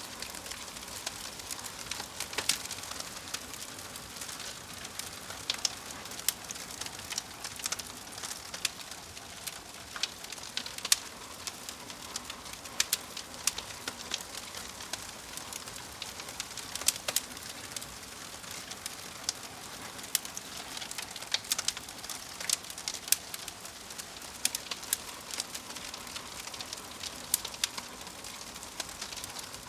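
Wood fire burning in a fireplace: a steady hiss with frequent, irregular sharp crackles and pops from the burning logs.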